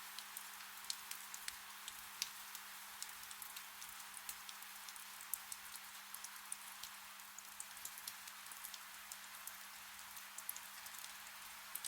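Soft, steady rain hissing, with many individual raindrops ticking sharply and irregularly. A faint, steady low hum runs underneath.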